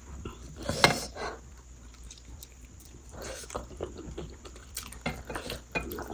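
A person chewing food close to the microphone: irregular wet mouth clicks and soft chewing noises, with one louder noise about a second in.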